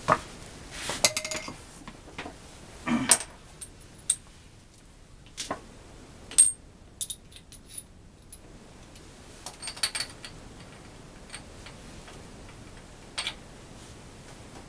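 Light metallic clicks and clinks at irregular intervals, the loudest about six seconds in, from small metal items being handled; no engine is running.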